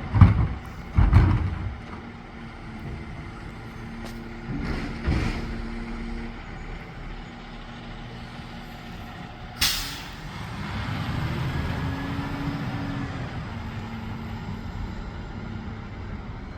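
Garbage truck idling, with heavy bangs twice in the first two seconds and again around five seconds in. A sharp air-brake hiss comes just under ten seconds in, then the engine revs up and stays louder.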